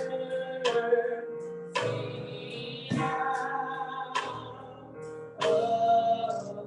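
Slow church music: sustained chords struck about once a second, with singing.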